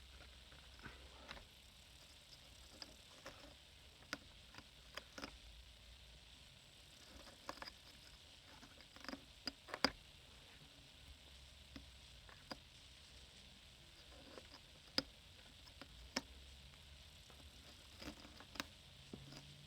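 Hands working on a Shark upright vacuum's opened brush-roll housing and belt: scattered small clicks and scratches of plastic parts being handled.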